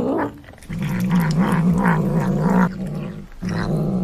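Domestic cat growling: a low, wavering growl held for about two seconds, then a second long growl after a brief break.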